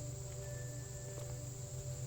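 Steady high-pitched chorus of insects such as crickets, over a steady low hum and a few held lower tones.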